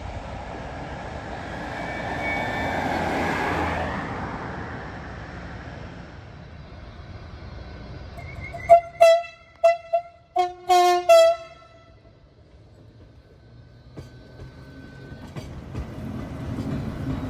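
Railway horn sounding a string of about six short toots, one of them sounding two notes together. Before the toots, a train's rumble swells and fades away.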